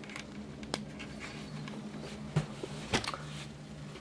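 A few light clicks and knocks from handling a CPU cooler fan's cable and connector, over a low steady hum.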